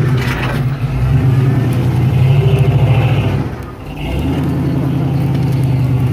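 Off-road vehicle's engine running under load as it crawls over rocks, easing off briefly about three and a half seconds in, then pulling steadily again.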